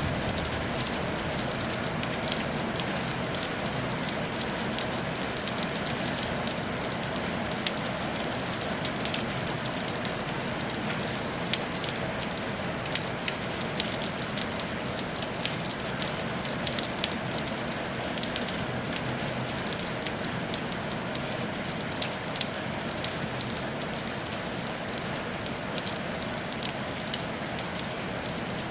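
Steady rain falling on a tile roof, an even patter with many separate drop ticks heard through it.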